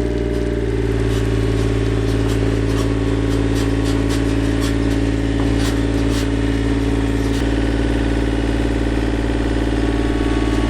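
Mini excavator's diesel engine running steadily, with faint light clicks over it and a slight change in its note about seven seconds in.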